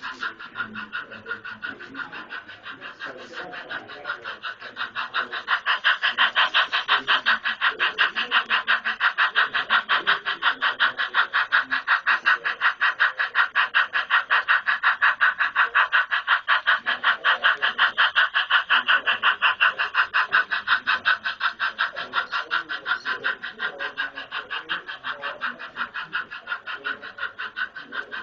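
Model train running on the layout: a fast, even train of clicks, several a second, that grows louder about five seconds in and fades again over the last several seconds as the train passes close and moves away.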